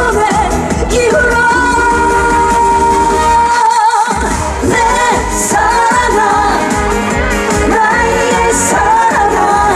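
A woman singing a Korean trot song live over a loud backing track with a steady, pounding beat; the bass drops out for a moment about four seconds in, then the beat returns.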